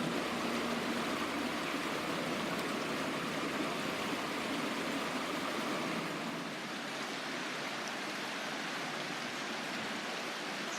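Steady rush of flowing river water, an even noise with no distinct events, easing off slightly about six seconds in.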